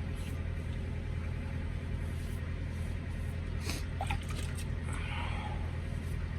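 Steady low hum of an idling truck engine heard inside the cab, with a few faint brief clicks and a short soft rustle about five seconds in.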